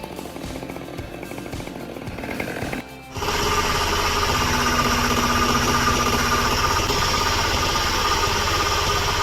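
A machine's engine running steadily and loudly from about three seconds in, after a brief drop in sound. Before it, a quieter mechanical running sound, similar to the chainsaw heard just before.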